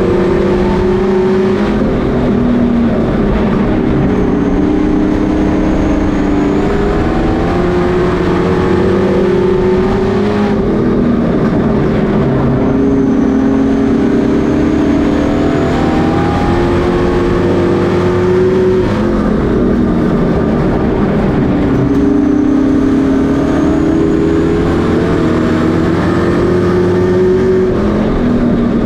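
Several Pro Truck race engines running at speed, their pitch rising and falling together in a repeating cycle about every ten seconds as the pack goes round.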